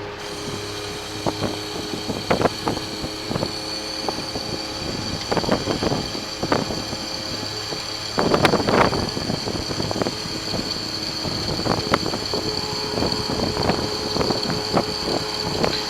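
Sterling flatbed truck's engine running steadily with a constant high whine, under irregular clanks and rattles, the loudest burst about eight seconds in.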